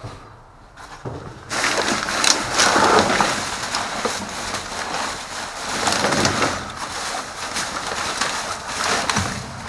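Plastic bags and plastic water bottles being handled: a dense, crinkling rustle full of small clicks that starts about a second and a half in and keeps going.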